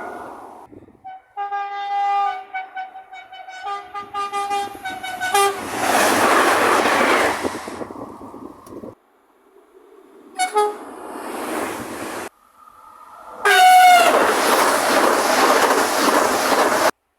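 Train horns sounding as trains approach a level crossing: a series of short horn blasts, then the loud rush of a train passing. Several separate clips follow one another with abrupt cuts, one horn's pitch dropping as its train goes by.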